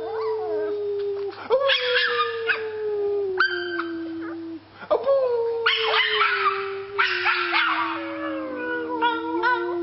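A dog howling: long drawn-out howls, each held on one pitch that slowly sinks, with a new howl starting about every three to four seconds.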